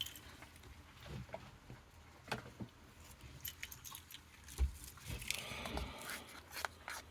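Scattered small clicks and a few soft knocks from a folding knife being handled while its blade is looked over.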